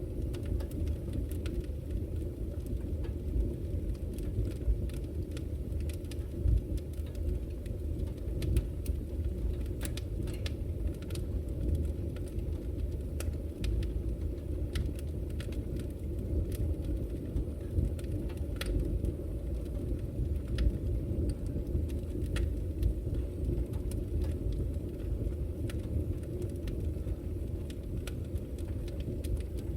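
Fire burning in a fireplace: a steady low rumble of flames with scattered, irregular crackles and pops.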